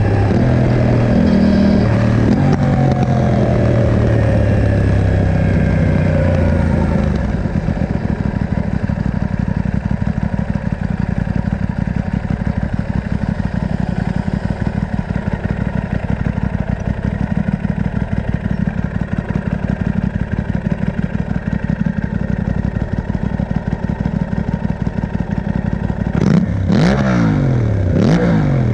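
Aprilia RS660's parallel-twin engine through a Mivv Delta Race exhaust with the catalyst removed and the dB killer fitted. Its engine speed falls back over the first several seconds to a steady, pulsing idle, then it is blipped sharply up and down a few times near the end.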